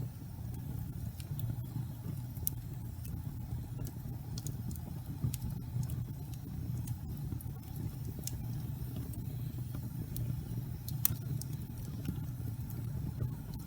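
Wood fire burning in a fireplace: a steady low rumble with sharp crackles and pops scattered irregularly, one louder pop about eleven seconds in.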